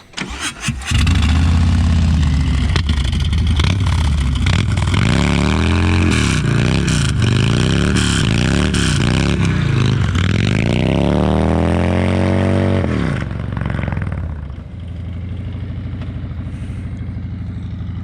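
Harley-Davidson Low Rider's Milwaukee-Eight V-twin comes in loud about a second in. It is blipped up and down several times, then held in one longer rev, and drops back to a steady idle from about two thirds of the way through.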